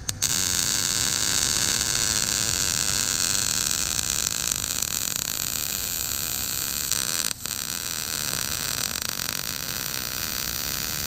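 Gas-shielded MIG welder (Lincoln Electric 110 V) running a continuous bead: the arc strikes with a few clicks, then a steady hiss, broken once for an instant about seven seconds in before it carries on.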